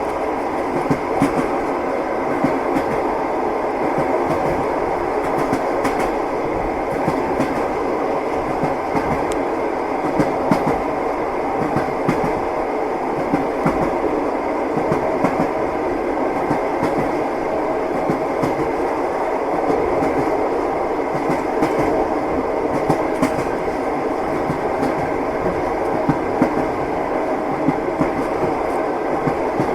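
Train wheels clattering over the rail joints: a steady rumble of a moving railway carriage with sharp, irregular knocks every second or two.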